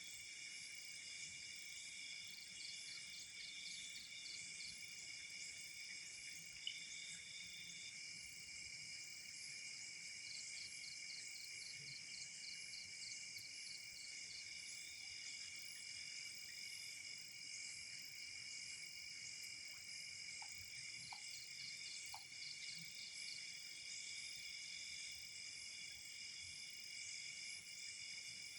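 Night chorus of crickets and other insects, several steady high-pitched trills overlapping, with a faster pulsing trill that comes and goes. A single sharp click about a quarter of the way in, and a few faint ticks past the middle.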